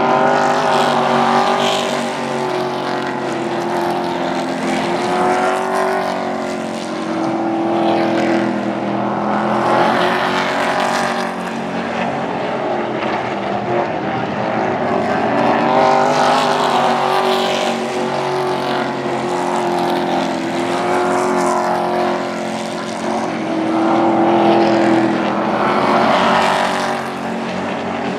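Engines of a pack of super trucks racing around the oval. The engine notes rise and fall in pitch and loudness as the trucks come past every several seconds.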